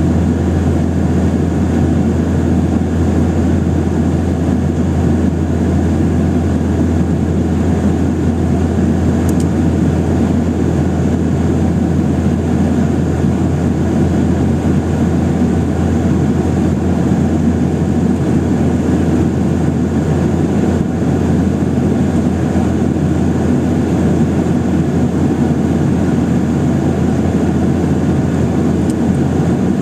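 Steady drone of a Boeing 737-800's CFM56 jet engines and airflow heard inside the passenger cabin in flight, with a constant low hum underneath.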